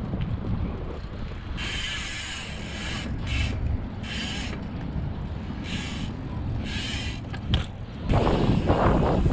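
Wind buffeting the microphone while riding a bicycle, a steady low rumble, with several short bouts of high hiss or buzzing in the middle and a stronger gust near the end.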